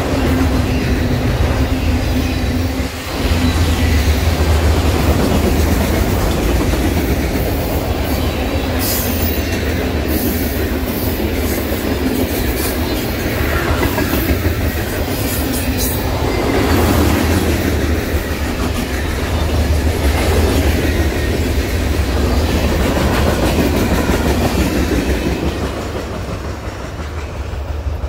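Freight cars of a passing train, autoracks and a lumber-loaded centerbeam flatcar, rolling by close to the track: a steady rumble and clatter of steel wheels on the rails. A few brief high wheel squeaks come around the middle. Near the end the sound falls away as the tail of the train moves off.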